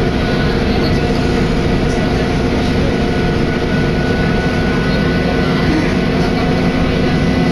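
Cabin noise of a diesel railcar under way: a steady engine drone over a constant rumble.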